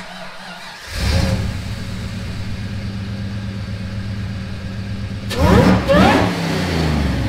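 Car engine starting about a second in and running at a steady idle, then revved twice in quick succession near the end, the pitch rising each time before settling back.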